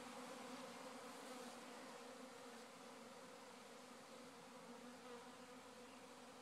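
Honey bee swarm buzzing: a faint, steady hum of many bees' wings.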